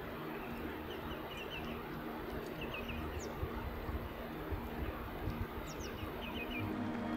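Small birds calling: short bursts of rapid high chirps come about four times, with a couple of thin, high whistles that slide downward, over a steady background hiss.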